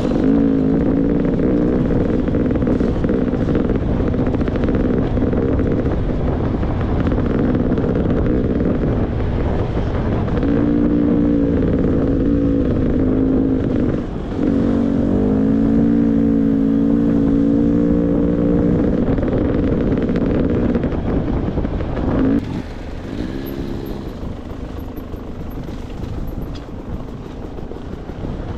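Beta 300 RR two-stroke enduro motorcycle engine running on the throttle, its pitch rising and falling as the throttle opens and closes. It dips briefly about fourteen seconds in and drops to a lower, quieter run from about twenty-two seconds in.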